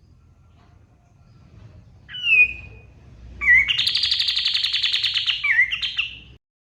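Kapas tembak songbird singing: a short whistled note that drops in pitch about two seconds in, then a loud rapid chattering trill lasting about three seconds, closing with a quick slurred note. The song cuts off suddenly near the end.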